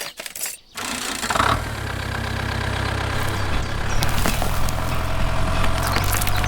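An engine idling steadily, coming in after a short break about a second in, with a few light clicks over it.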